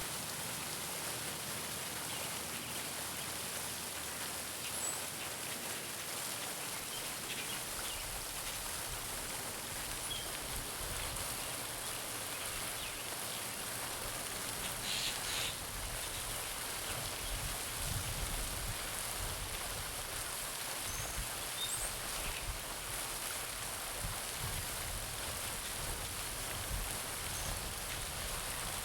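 Garden pond fountain splashing steadily into the water, a continuous hiss of falling droplets. A few faint bird chirps come through now and then.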